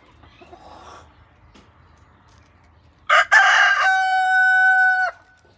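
A rooster crowing once, about three seconds in. It opens rough, breaks into a long held note and drops off at the end, lasting about two seconds.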